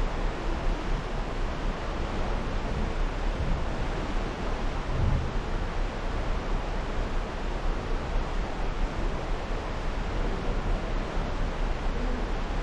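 Steady rushing noise of wind and water, with a low rumble underneath, aboard a cruise ship under way.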